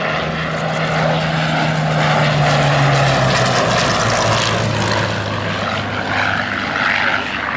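Rolls-Royce Merlin V12 piston engine of a WWII fighter flying past, its engine note dropping in pitch a few seconds in as the aircraft goes by.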